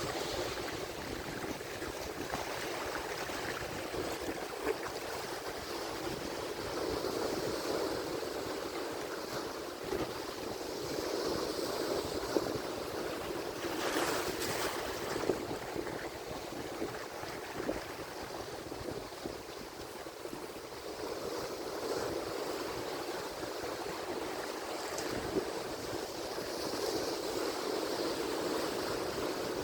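Atlantic Ocean surf: waves washing in steadily, swelling and easing every few seconds, with now and then a brief crackle of breaking water.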